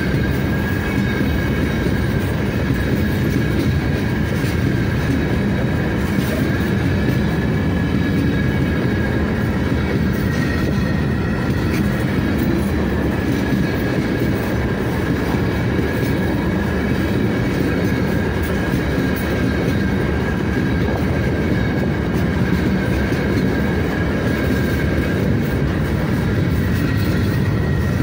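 Freight train of open gondola cars rolling past close by: a steady rumble of steel wheels on the rails, with a thin high-pitched ring held throughout.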